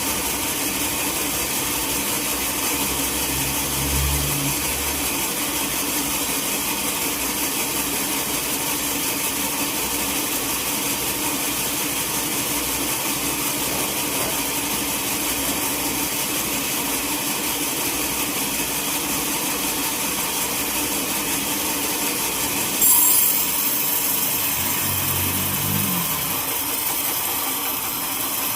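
Sawmill saw running steadily through a teak log, a continuous machine drone with a high hiss. Near the end a sudden louder burst of high hiss comes in, and the hiss stays stronger afterwards.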